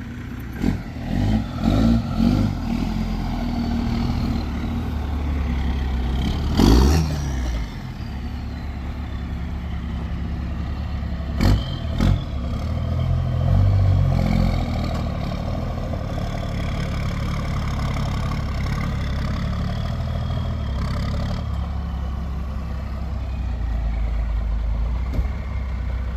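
Pickup truck engine running at low speed as the truck pulls up and parks, with a steady low drone. There are several short knocks in the first few seconds, a louder thump about seven seconds in, and two sharp clicks a little before halfway.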